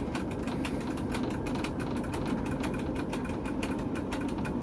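TEP70 diesel locomotive's diesel engine running steadily, a low rumble with a rapid, even clatter.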